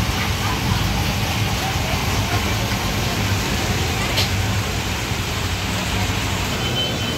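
Basa fish cakes deep-frying in a pan of hot oil, a steady sizzle over a low rumble, with a single short tick about four seconds in.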